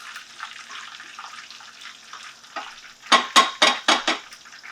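Sausage and flour sizzling in a pan, cooking out the raw flour for gravy. About three seconds in, a utensil stirs and scrapes against the pan in five quick loud strokes.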